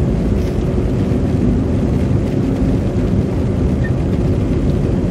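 Steady low rumble of tyre and road noise heard inside a car driving on a slushy, snow-covered road.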